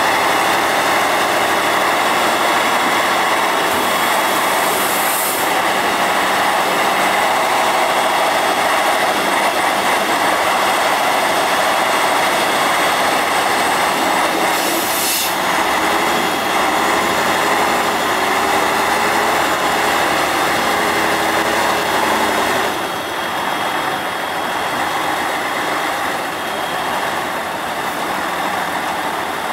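Praga V3S 6x6 army truck's air-cooled diesel engine running steadily, with two short hisses, about four seconds in and again about fifteen seconds in. The sound drops a little in level about three-quarters of the way through.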